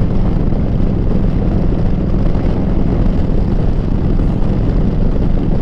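Harley-Davidson V-twin running through a Rinehart exhaust while the bike is ridden, a steady deep exhaust note.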